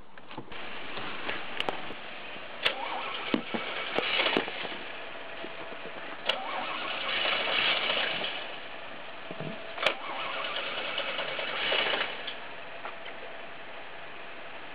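Starter cranking a third-generation Chevrolet Camaro's engine in about four long bursts with clicks between them; it does not settle into an idle before the sound stops about 12 seconds in.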